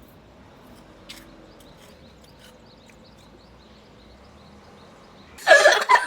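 Quiet outdoor background with a few faint chirps, then a sudden loud burst of voices about five and a half seconds in.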